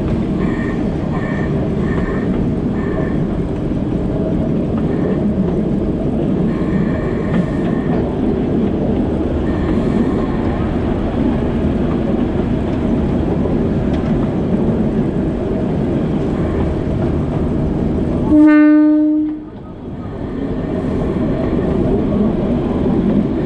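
Alishan Forest Railway narrow-gauge train running along the track with a steady rumble, and one short horn blast about eighteen seconds in. Right after the horn the running noise dips sharply for a moment before picking back up.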